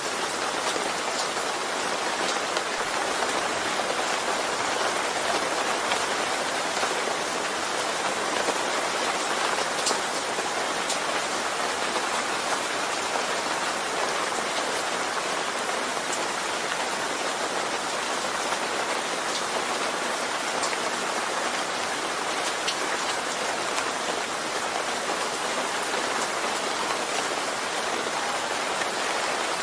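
Steady rain falling on a surface, an even hiss with scattered individual drop ticks, unchanging throughout.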